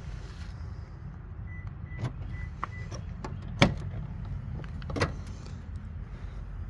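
Clicks and clunks of a car's controls and doors, the loudest about halfway through, with a short run of high chime beeps in the first half, over a steady low hum.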